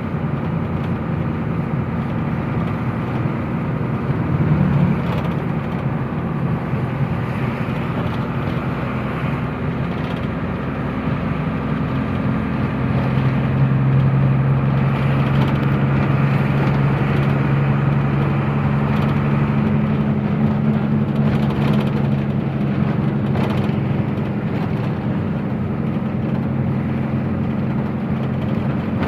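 Truck engine running steadily under way, with a hum that rises in pitch and gets a little louder about halfway through.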